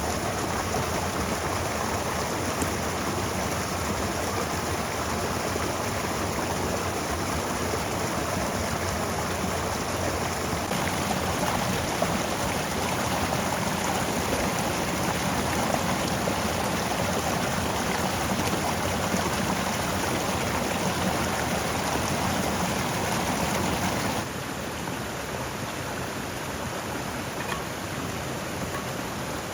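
Steady rushing noise of water, such as rain or a stream, with no rhythm or distinct events. It changes abruptly about a third of the way in and turns a little quieter near the end.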